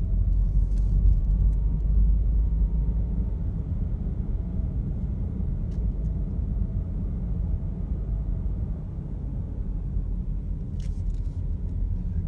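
Steady low rumble of a vehicle driving, engine and road noise heard from inside the cabin, with a faint whine that rises and falls slightly and a few light clicks.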